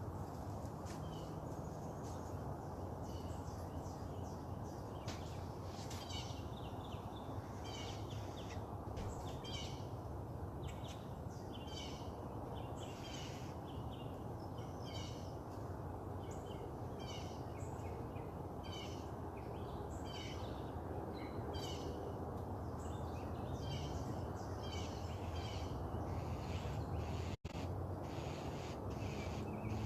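Several songbirds chirping and singing, many short calls following one another in quick succession, over a steady low background hum. The audio drops out for a split second near the end.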